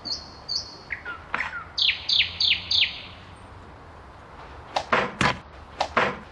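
Birds chirping: short high chirps, a quick run of four falling notes about two seconds in, and a few sharp clicks near the end.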